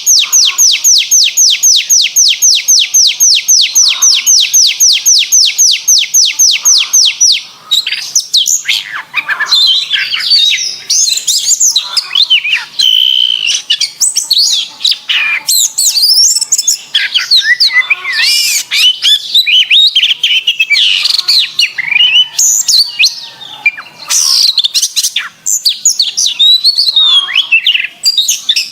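Domestic canary singing: a rapid trill of one repeated down-sweeping note, about five a second, for roughly the first seven seconds, then a fast, varied warbling run of chirps and whistles.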